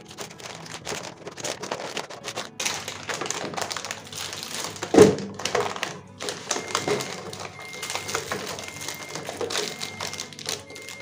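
Items and containers being handled and set down, a busy run of light taps and knocks with one louder thump about five seconds in.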